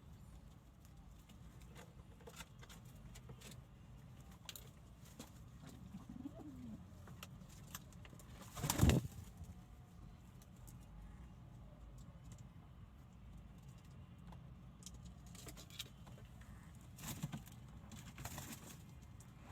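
Pigeons cooing softly among scattered small clicks, with one short, loud burst of noise about nine seconds in.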